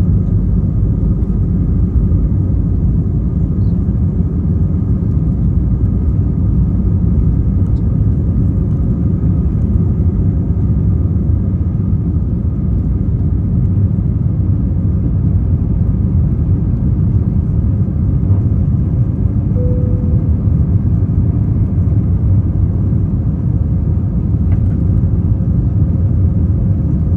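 Steady low rumble inside the cabin of an Airbus A320ceo airliner during takeoff: the jet engines at takeoff power and the airframe. A faint steady tone comes in about twenty seconds in.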